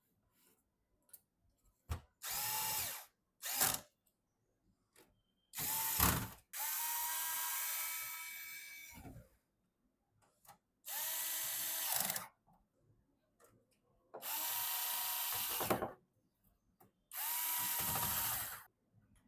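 Small electric screwdriver driving motherboard mounting screws, its motor whining in about six short runs of a second or two each, with one longer run near the middle that trails off.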